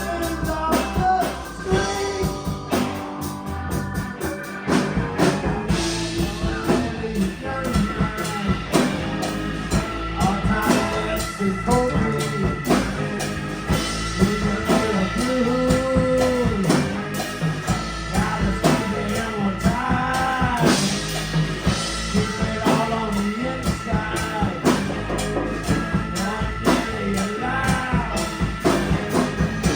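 A rock band playing a blues-rock song: drum kit keeping a steady beat, guitar, and a voice singing.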